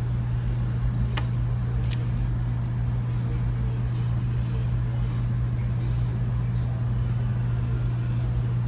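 A steady low rumbling drone, like a car running, with two sharp clicks a little over a second and about two seconds in.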